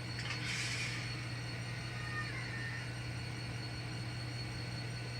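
N scale model locomotive running on the layout, a steady low motor hum with a light hiss.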